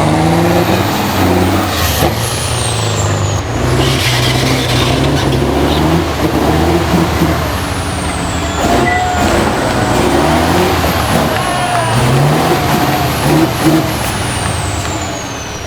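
Tatra 815 6x6 truck's diesel engine working under load, its revs rising and falling, with a high whistle that falls in pitch several times.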